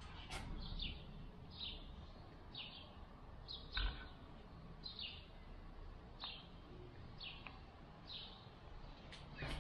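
Faint bird chirps: a short, falling chirp repeated about once a second. A soft click about four seconds in.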